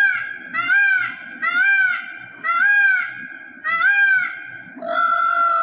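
A large bird calling loudly and over and over: six short arched calls, each rising and then falling in pitch, about one a second, then one longer, level call near the end.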